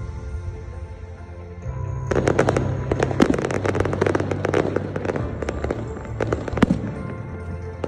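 Fireworks salute crackling: a dense run of sharp pops starting about two seconds in and thinning out near the end, with one louder crack, over music with held low notes.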